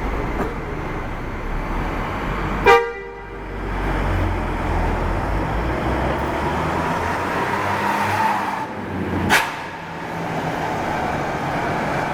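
Steady bus engine and road noise, broken about three seconds in by one short, loud vehicle-horn toot. A sharp, loud bang follows a few seconds before the end.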